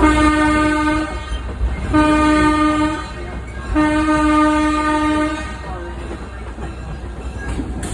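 Locomotive horn sounding three blasts on one steady note, the first two about a second each and the last a little longer, over the low rumble of the train rolling along the track.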